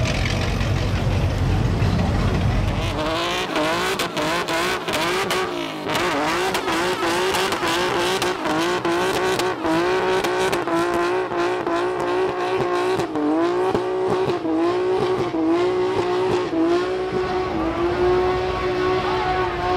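American car's engine rumbling low, then revved hard about three seconds in and held at high revs, its pitch wavering up and down.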